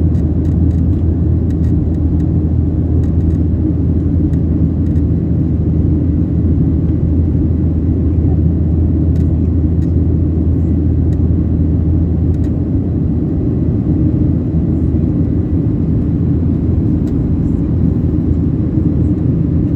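Steady low drone inside the cabin of a Boeing 737-800 in flight, the engines and airflow making a constant rumble.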